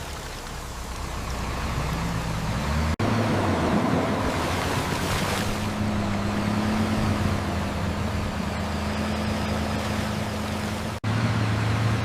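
Dump truck engine running steadily under a constant noisy wash, typical of a truck churning through mud and water. The sound breaks off abruptly twice, about three seconds in and near the end, where the clips are cut together.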